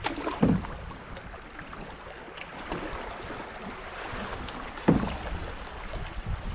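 Canoe on the river: water against the hull, with a few low knocks, the loudest about five seconds in.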